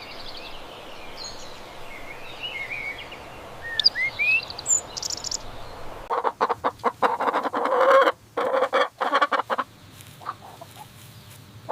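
Birds chirping, with short rising calls over a steady outdoor hiss. About six seconds in, a flurry of loud, quick, repeated clucking begins, typical of chickens, and it fades about ten seconds in.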